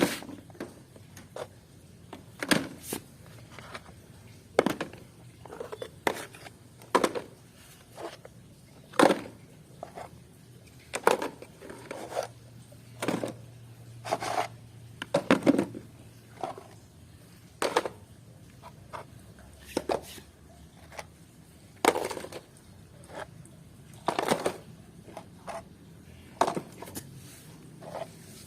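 Plastic toy vehicles knocking and clattering as they are picked up and dropped into a basket one after another, in irregular sharp knocks about every second or two.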